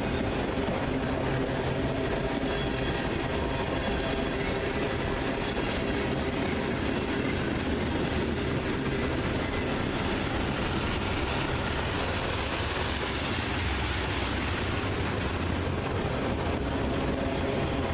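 Freight train rolling past, its steel wheels running on the rails with a steady, even noise.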